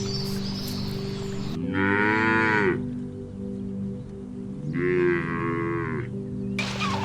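A cow mooing twice: two calls of about a second each, each rising and then falling in pitch. Soft background music with steady held notes underneath.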